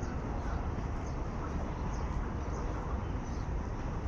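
Steady low rumbling noise, with faint high bird chirps recurring about once or twice a second.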